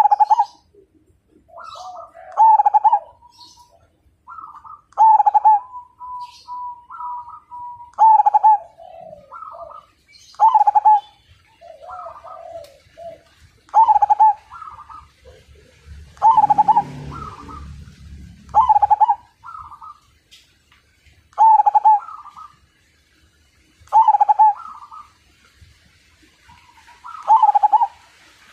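Perkutut (zebra dove) singing: a loud, clipped cooing phrase repeats about every two and a half to three seconds, with softer coos in between. A brief low rumble sounds about halfway through.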